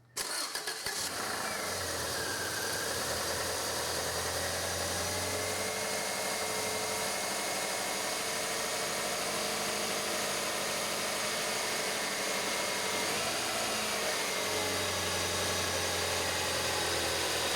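1996 Subaru Legacy's 2.2-litre flat-four engine cranks briefly, catches within about a second, then idles steadily, with a small dip in pitch early on and a short rise around thirteen seconds in. It starts and keeps running on a newly installed fuel pump: the no-start and stalling fault is cured.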